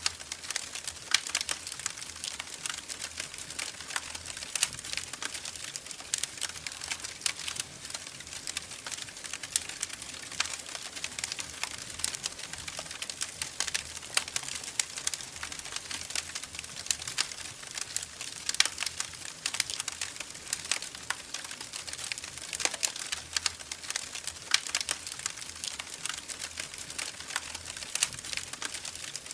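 Wood fire in a fireplace crackling and popping, with many irregular sharp snaps over a steady hiss.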